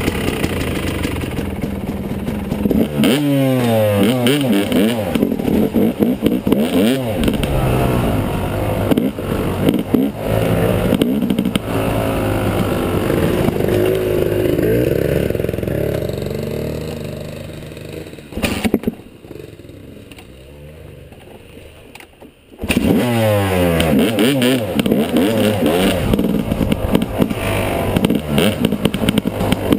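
Yamaha 250 dirt bike engine running under way, revving up and down as it pulls through the gears. Past the middle it quietens for a few seconds, then comes back in abruptly at full level.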